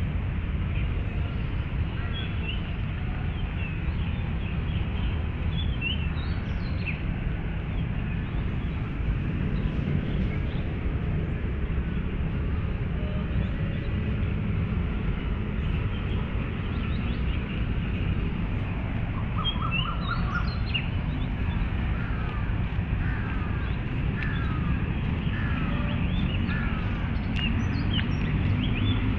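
Birds chirping now and then over a steady low rumble of city traffic, with a quicker run of chirps about twenty seconds in.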